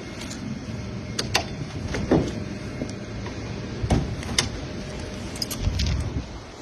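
Scattered sharp metallic clicks and clanks, about six over several seconds, over a low steady rumble.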